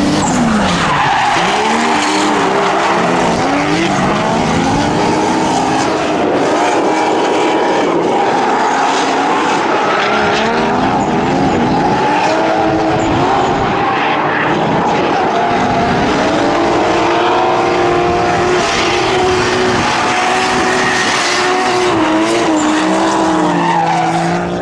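Drift car engines revving hard, the revs repeatedly rising and falling with throttle and gear changes, over the continuous screech of tyres sliding.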